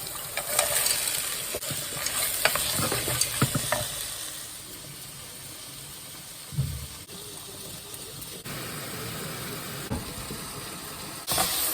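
Food sizzling in a hot pan, with a utensil stirring and scraping in the first few seconds and a single knock about six and a half seconds in. The sizzle grows louder near the end.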